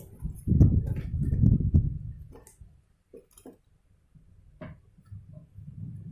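A run of clicks and knocks from projector parts being handled during disassembly, thickest in the first two seconds, then a few single clicks, with a low hum coming back near the end.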